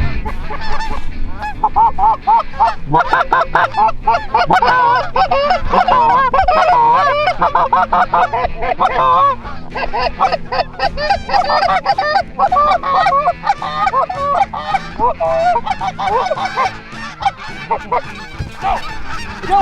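A flock of Canada geese honking, many birds calling over one another in a dense, continuous chorus that thins out near the end.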